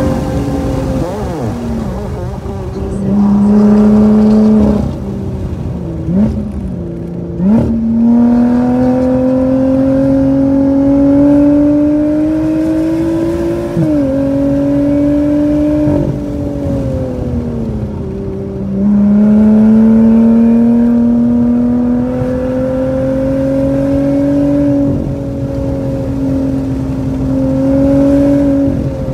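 Car engine at full throttle in track driving, heard from inside the cabin. Its pitch climbs steadily under acceleration, drops sharply about fourteen seconds in, sags under braking, then climbs again twice.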